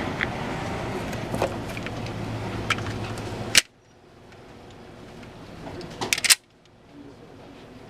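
Two sharp pistol shots from an FN 510 Tactical (10mm Auto), one about three and a half seconds in and another about six seconds in. After each, the background cuts out abruptly as the recorder's level clamps down.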